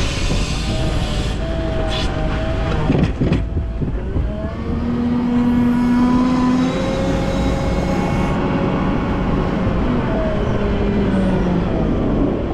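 Volvo L90F wheel loader's diesel engine working steadily, with whining tones that shift up and down in pitch. A few sharp knocks come about two to three seconds in.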